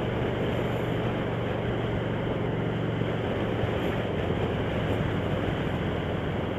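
Motorcycle engine running steadily while riding at speed, with the rush of wind noise over it.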